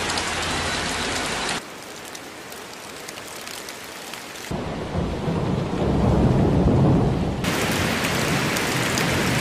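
Heavy rain hissing steadily. It is made of several rain recordings joined with abrupt changes, about a second and a half in and again about three seconds later. From the second change a low rolling rumble of thunder builds under the rain and is loudest a couple of seconds later.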